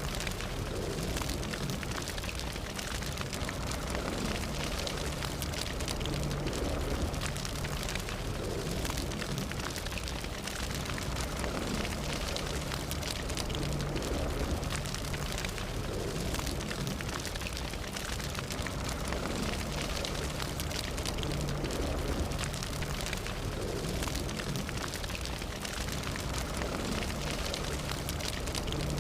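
A fire burning steadily, with dense crackles and pops over a continuous low rushing noise.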